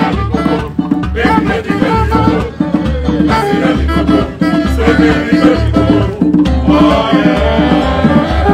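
Igbo ogene band playing live: a steady, driving dance beat with melody lines and singing over it.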